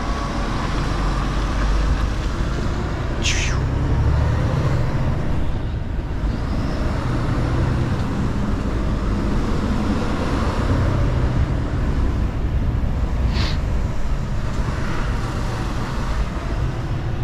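Mercedes-Benz Actros L truck driving slowly, its diesel engine running with a steady low rumble. There are two short hisses, about three seconds in and again about thirteen seconds in.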